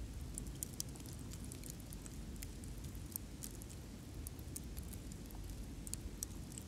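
Campfire crackling faintly: scattered, irregular sharp pops over a low steady rumble.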